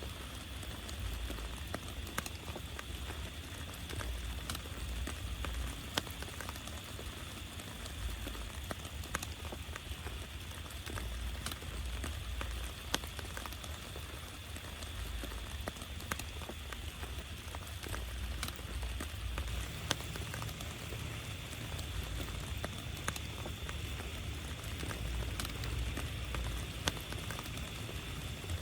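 Steady rain falling, with scattered sharp drop impacts and a low rumble underneath that swells and fades.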